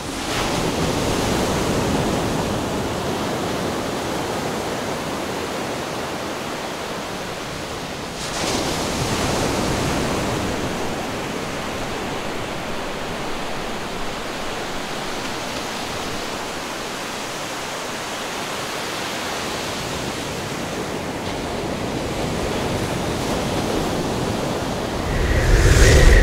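Ocean waves and surf sound effect: a steady rushing wash that swells twice, with a deep rumble building near the end.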